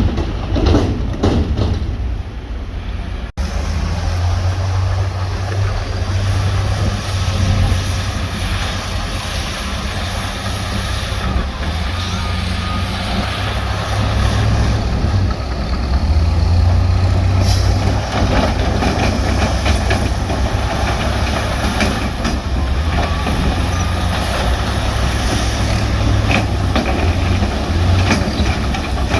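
Heavy diesel construction machinery running under load, a deep steady engine rumble with scattered knocks and clanks, which changes abruptly about three seconds in.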